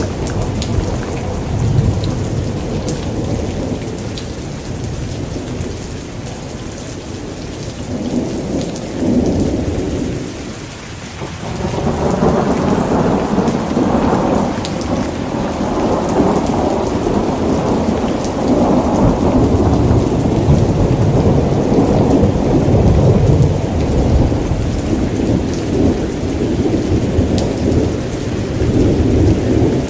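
Steady heavy rain with thunder rumbling throughout. The rumble fades for a moment about ten seconds in, then swells again and stays loud.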